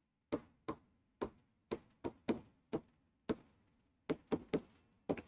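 About a dozen sharp, light taps or knocks in irregular rhythm, some in quick pairs and triples, each dying away quickly.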